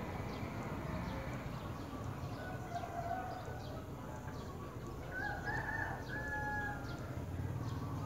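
Bird calls over a steady low hum: faint short, high chirps repeat throughout, and a longer pitched call lasting about a second and a half starts about five seconds in.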